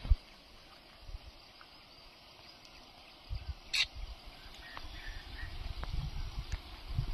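Outdoor ambience: a faint steady hiss with irregular low buffeting of wind on the microphone, which grows stronger in the second half. There is a brief rustle a little past the middle.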